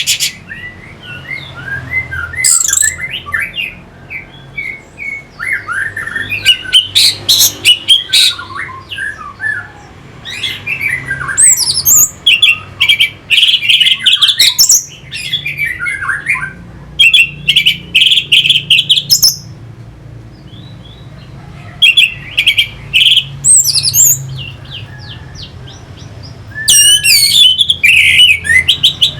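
Orange-headed thrush (anis merah) singing in loud bursts of fast, varied phrases, with rapid trills and some harsh notes, separated by short pauses. A faint steady hum lies underneath.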